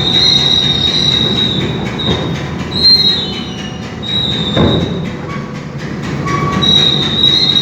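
Ferry's steel ramp door being raised shut, metal squealing in long high drawn-out screeches over a low rumble, with one clank about four and a half seconds in.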